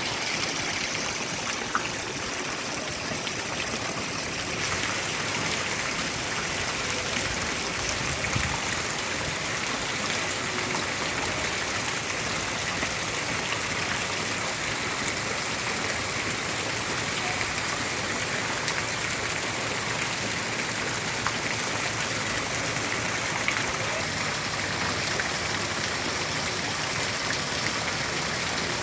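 Steady rain, an even hiss sprinkled with the patter of many small drops.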